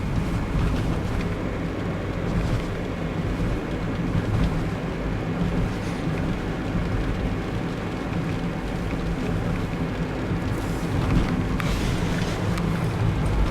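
Steady road and engine noise inside a moving Toyota Yaris: a low rumble of tyres and engine.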